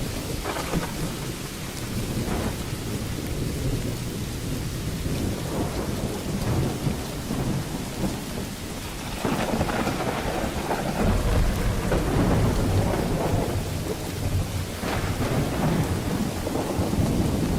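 Thunderstorm: steady rain with rolling thunder. The rumble swells about halfway through, and a sharper crack comes near the end.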